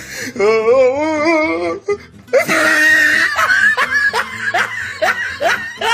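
Cartoon character laughing over background music: a wobbling, quavering voice first, then a long run of quick laughter pulses from about two and a half seconds in.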